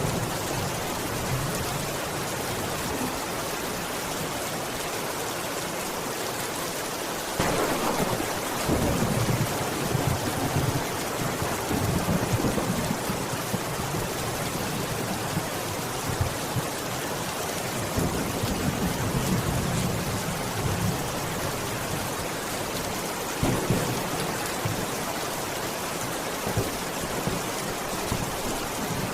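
Steady rain falling, with thunder breaking suddenly about a quarter of the way in and rumbling on for several seconds, then weaker rolls of thunder later.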